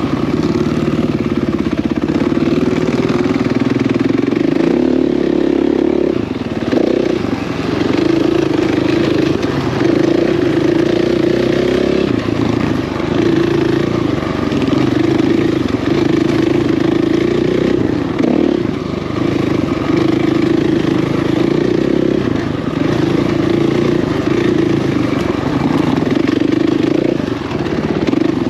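Off-road vehicle engine running steadily under throttle on a trail, easing off briefly a few times.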